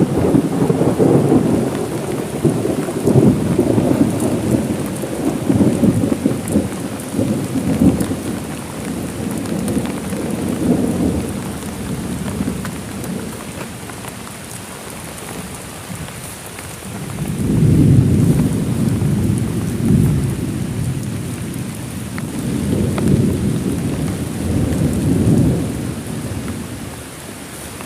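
Heavy rain falling steadily, with rolling thunder: a long rumble over the first half, then two shorter rumbles after the middle.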